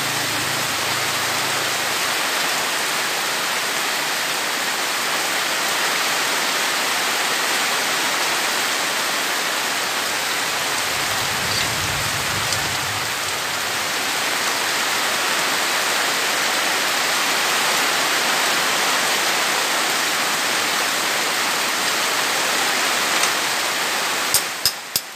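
Heavy rain pouring down steadily, with a few sharp clicks near the end.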